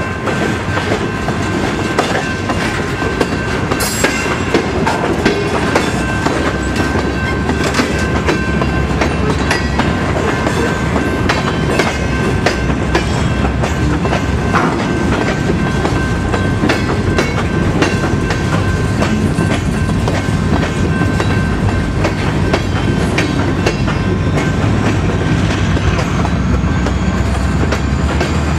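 Huron & Eastern freight train cars rolling past: a steady rumble with the clickety-clack of wheels over the rail joints and a faint high wheel squeal.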